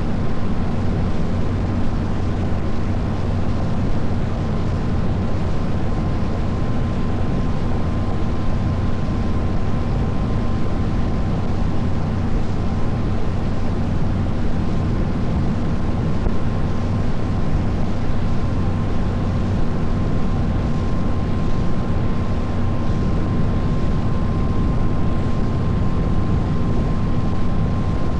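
Boat engine running steadily at cruising speed: a constant low drone with a thin higher whine.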